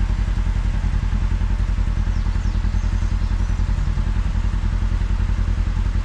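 Kawasaki KRX side-by-side's parallel-twin engine running steadily, with an even, rhythmic low pulse and some clatter from the vehicle on the trail.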